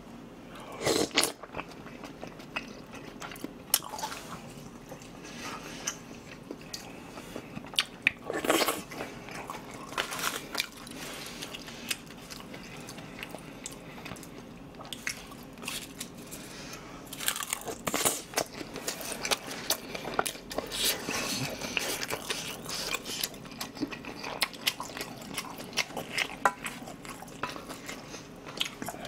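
Close-miked chewing of a mouthful of Spam kimchi fried rice, with irregular crunching bites.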